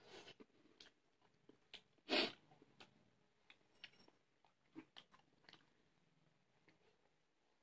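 Quiet chewing and biting of people eating a meal by hand: small crunches and mouth clicks scattered through, with one louder burst of noise about two seconds in.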